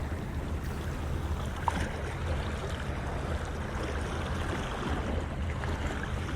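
Wind rumbling on the camera microphone over the steady wash of sea waves on a rocky shore.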